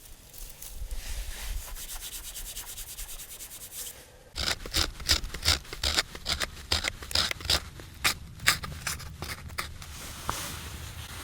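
Rough rubbing and scraping: a faint fast rasping for about four seconds, then, after a sudden change, louder irregular scraping strokes, about two a second.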